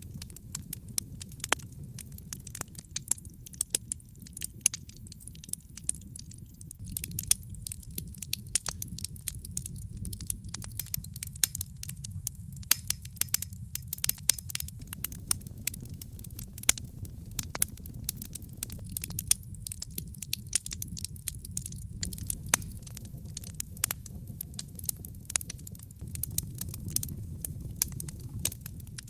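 Wood fire burning, with a steady low rumble of flame and frequent irregular sharp crackles and pops.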